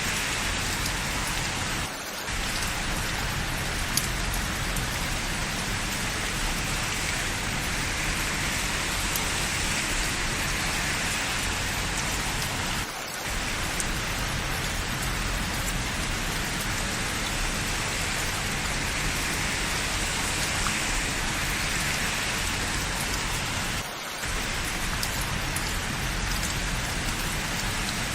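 Steady rain falling on hard surfaces, a dense continuous hiss of drops. It briefly dips three times, about eleven seconds apart.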